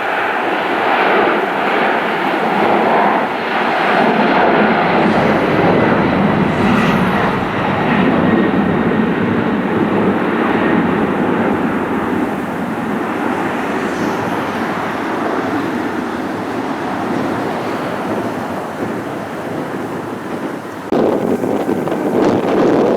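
Airliner engines: a loud, steady rush of engine noise that slowly fades, then jumps back up abruptly near the end.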